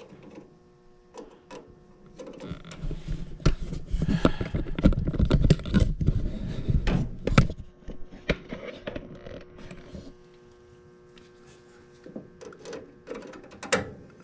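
Clattering knocks and rustling from handling things, dense for several seconds from about two seconds in, then a few scattered clicks near the end, over a faint steady electrical hum.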